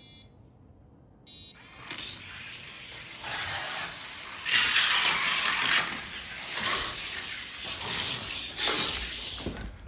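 Die-cast toy car (the Shadow Jet) rolling down a gravity race track lane after release about a second and a half in. The wheels make a rushing rolling noise that grows louder through the middle, then carries on unevenly as the car runs the course.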